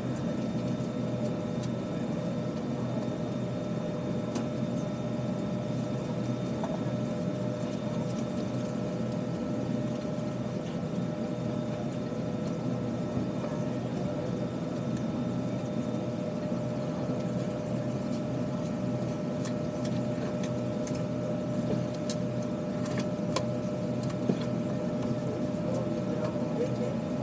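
Steady drone of a parked Airbus A320 cabin during boarding: air-conditioning airflow with a steady hum and whine, plus a few faint clicks in the last third.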